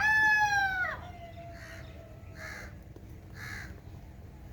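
Rooster crowing: the held end of the crow falls in pitch and breaks off about a second in. Faint short cawing calls follow, about one a second.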